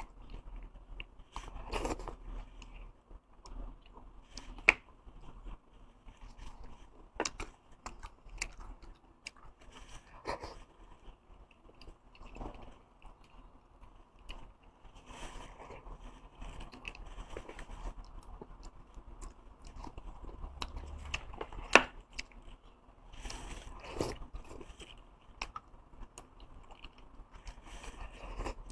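Close-miked chewing and biting of fatty beef and bone marrow: irregular wet mouth sounds and sharp clicks, two of them much louder, about five seconds in and near 22 seconds.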